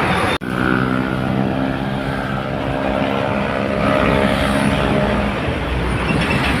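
Box truck's diesel engine running with a steady drone over road noise as the truck passes. The sound cuts in abruptly about half a second in.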